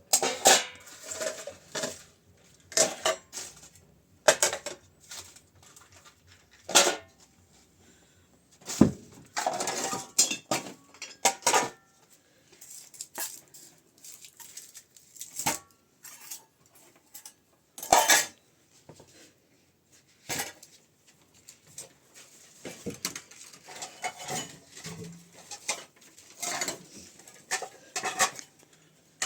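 Irregular clattering and clinking of hard objects, like pots, dishes and utensils being handled and set down.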